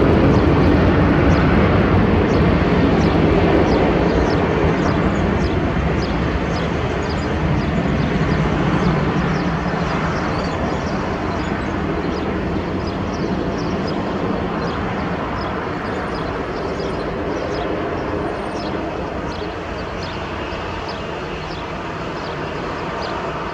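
Boeing 737-800's twin CFM56-7B jet engines at takeoff thrust: a loud, noisy rumble that slowly fades as the aircraft moves away.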